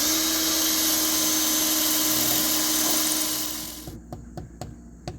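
Cordless drill running steadily as it drives a screw through the plastic lockbox, then spinning down a little before four seconds in. A few light clicks of handling follow.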